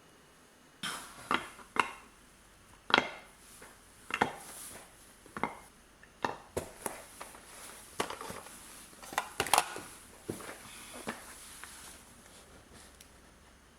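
Dishes and utensils clinking and knocking together, in irregular sharp clatters with short pauses.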